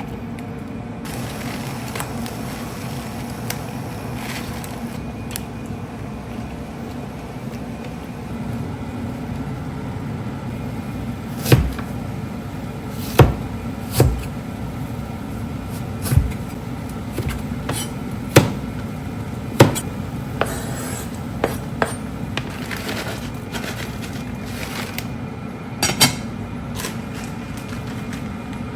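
Kitchen handling sounds: about seven sharp knocks and clacks of containers or utensils being set down or handled, scattered through the second half, over a steady low hum.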